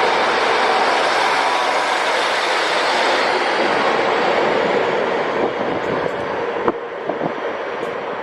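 A train running along the station tracks: a steady rumble and hiss of wheels on rail that eases off over the last few seconds, with a few sharp clacks over the rail joints near the end.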